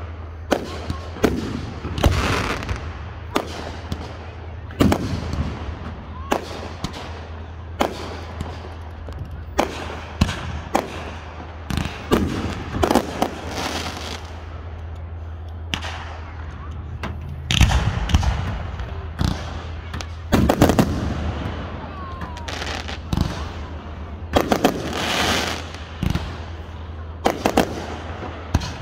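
Aerial fireworks being launched and bursting: a string of sharp bangs at irregular intervals, with several clusters of rapid bangs.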